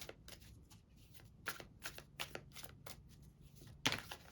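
Tarot cards being shuffled by hand: a quick run of short card slaps, about three a second, with one louder slap near the end.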